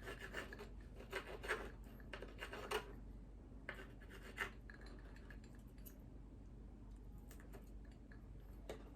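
Cutlery scraping and rasping against a plate in short irregular strokes while working at crispy bacon, growing quieter about halfway through.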